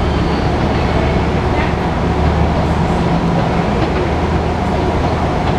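Diesel-hauled Long Island Rail Road train of Kawasaki C3 coaches, pulled by an EMD DE30AC locomotive, moving away down the tracks: a loud, steady low rumble and hum.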